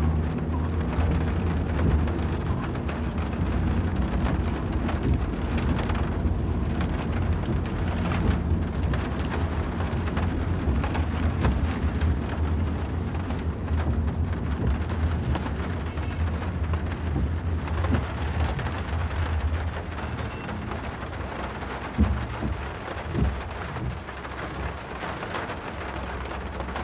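Rain pattering on a moving car, with a steady low rumble of the car driving on a wet road underneath. A few louder thumps come near the end.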